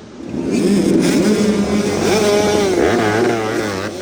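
A row of dirt bike engines fires up together about a quarter second into a dead-engine race start and revs hard as the pack launches, many engine notes rising and falling over one another.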